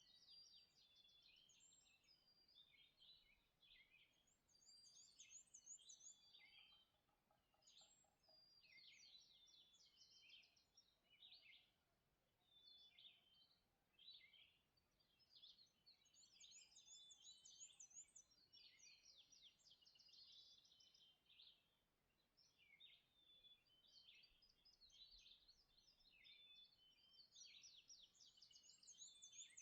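A faint dawn chorus of several songbirds singing at once: overlapping high trills, chirps and whistled phrases, with no pause.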